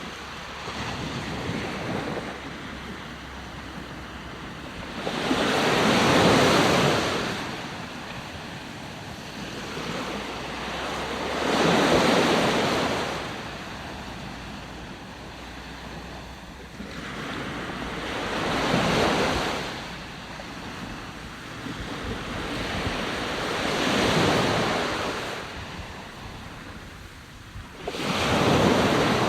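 Ocean waves breaking on the shore, a steady wash with a wave surging and receding about every six seconds, five in all.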